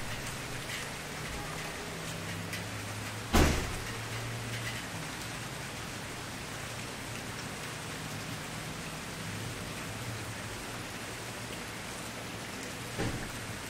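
Campfire burning with a steady hiss and scattered crackles. One sharp, loud pop comes a little over three seconds in, and a smaller pop near the end.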